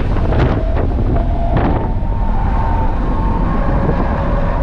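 BMW M2 Competition's twin-turbo straight-six driven hard on a race track, its engine note climbing about a second and a half in and then holding, under loud wind noise and road rumble. A few knocks sound in the first two seconds.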